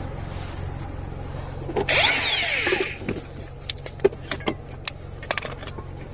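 Power tool running for about a second, its pitch rising then falling, during a roadside tire change. It is followed by a few sharp metallic clicks.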